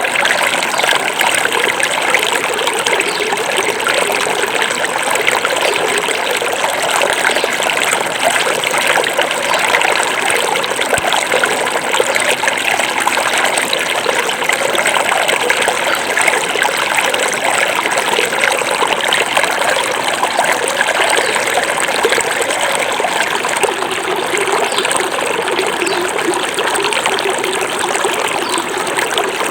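Small river flowing: a steady, even rush of running water.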